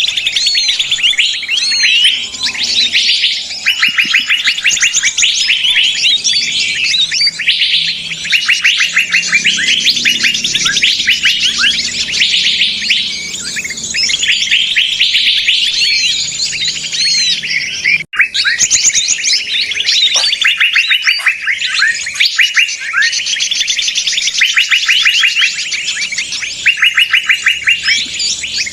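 Dense, noisy chorus of many small songbirds chirping and trilling rapidly over one another, the kind of commotion recording used as a bird lure to draw in wild birds. A split-second dropout about two-thirds of the way through.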